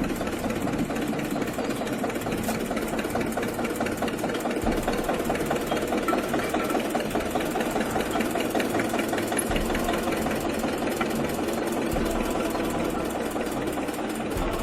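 Tractor engine idling steadily with a fast, even knocking pulse.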